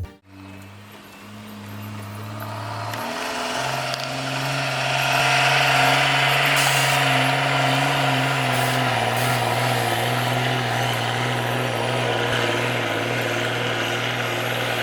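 Heavy truck's diesel engine running under load, growing louder as it nears and then holding steady, its pitch stepping up about three seconds in.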